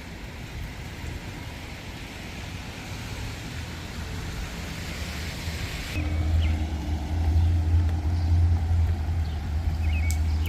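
Street traffic on a wet road: tyre hiss swells over several seconds, then gives way about six seconds in to a louder low rumble. A few faint bird chirps come through.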